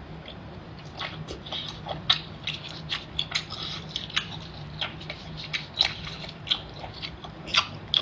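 Close-miked chewing: wet mouth smacks and clicks at an irregular pace, several a second, as a person eats a mouthful of food, over a low steady hum.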